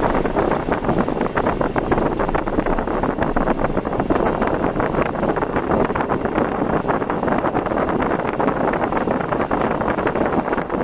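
Car driving through typhoon weather: a loud, steady rush of wind and rain against the car, with a dense patter of many small rapid impacts.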